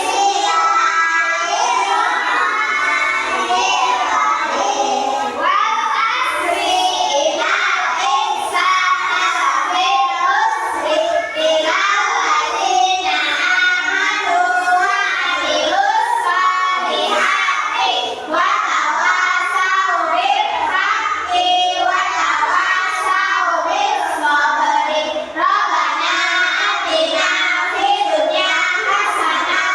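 Young children singing a song together, without a break.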